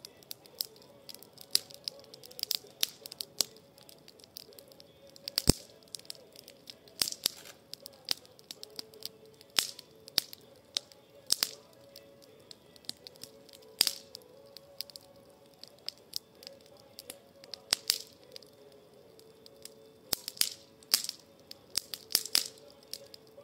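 Wood fire of brush cuttings crackling in a fire bowl, with irregular sharp pops and snaps, the loudest about five seconds in.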